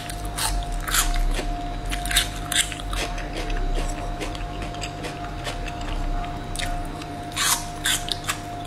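Close-miked mouth sounds of chewing strips of spicy braised beef skin: wet chewing with sharp, irregular clicks and smacks.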